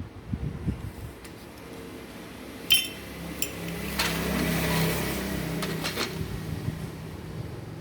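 Metal clinks and knocks of ceiling-fan parts being handled and worked apart, with one sharp click about three seconds in and a spell of scraping and rattling soon after, over a steady low hum.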